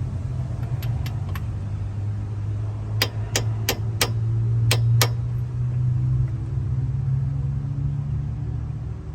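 Six sharp knocks in quick succession, a part being struck to drive it in flush, after a few lighter clicks. A steady low engine hum runs underneath.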